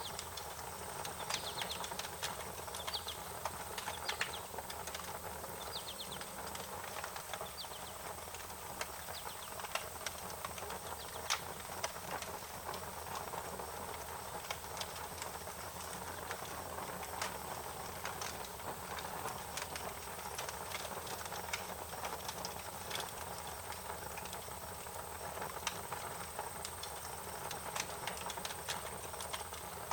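Wood fire crackling, with irregular sharp pops and snaps over a steady hiss. Short bursts of high chirping come a few times in the first eight seconds or so.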